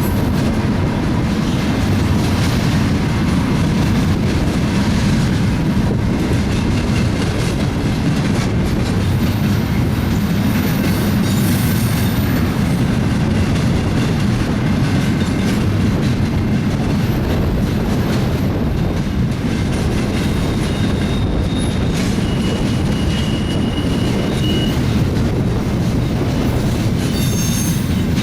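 Double-stack container train's cars rolling past with a steady, heavy rumble. Faint high wheel squeals come and go over it.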